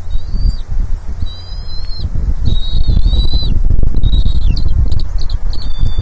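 Bald eagle nestlings giving a string of high, thin held calls, each half a second to a second long, with a loud low rumble of wind on the microphone underneath.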